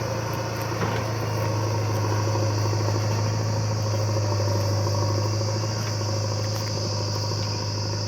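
Tractor diesel engine running steadily, with crickets chirping alongside in a steady high-pitched drone.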